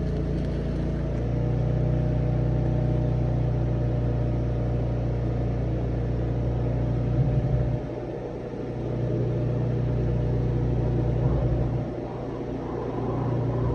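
An engine running steadily with a low, even hum that drops in level twice, about eight and twelve seconds in, then picks back up.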